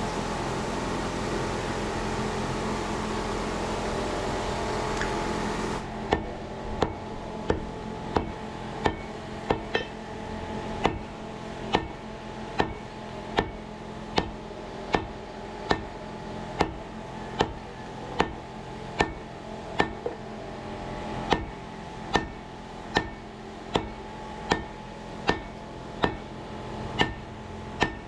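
A steady mechanical hiss and hum for about six seconds. Then a hammer strikes steel on an anvil in an even rhythm, a little over one blow a second, each blow ringing briefly over a low steady hum, as a golok blade is forged.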